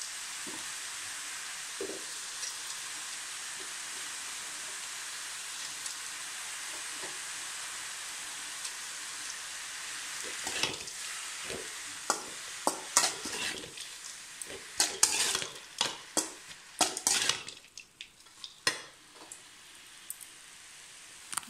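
Chiri kura greens and split moong dal sizzling steadily in a metal pan; from about halfway a metal spatula scrapes and clatters against the pan in quick, uneven strokes as the mixture is stirred.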